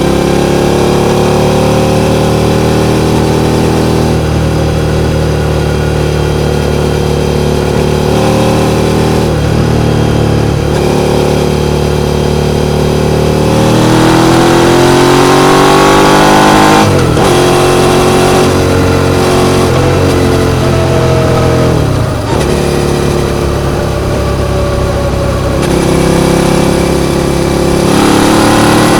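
Suzuki SV650's 645 cc 90-degree V-twin engine running, loud and steady at first. About halfway through, its note climbs for a few seconds and then drops sharply. It dips suddenly once more a few seconds later before settling again.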